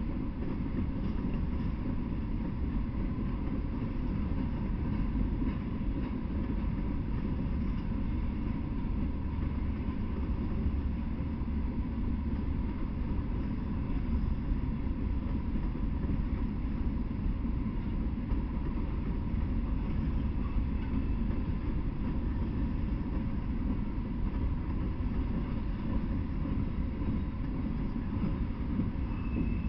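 Freight train of open-top coal hopper cars rolling past at steady speed: a continuous low rumble of wheels on rail, without breaks.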